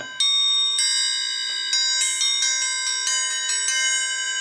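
Homemade steel dinner-bell triangle forged from sucker rod, struck about half a dozen times at uneven intervals, each strike ringing on with many overlapping metallic overtones.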